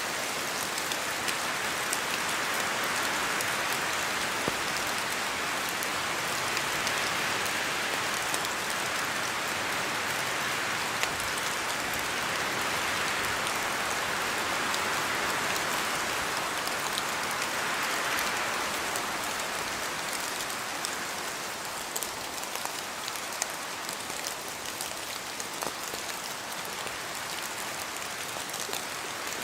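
Steady rain falling in a forest, with scattered louder drops falling from the trees. The hiss swells and eases, growing quieter after about twenty seconds.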